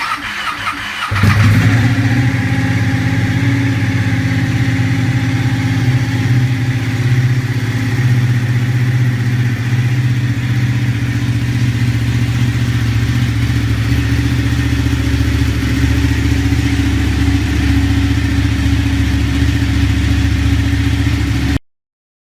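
A sportbike's engine starts about a second in and then idles steadily, cutting off suddenly near the end.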